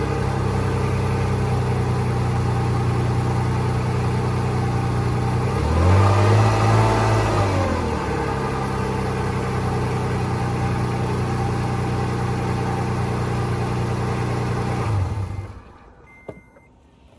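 Car engine idling, heard from underneath the car, revved once about six seconds in and dropping back to idle, then cutting off near the end. It carries an unidentified engine noise that the owner is trying to diagnose and finds unlike typical rod knock.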